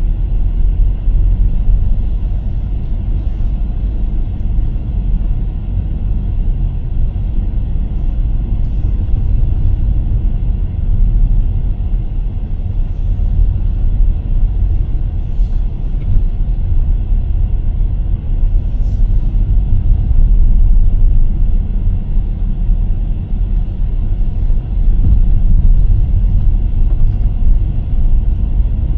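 A car being driven: a steady, loud low rumble of road and engine noise, with a few faint clicks.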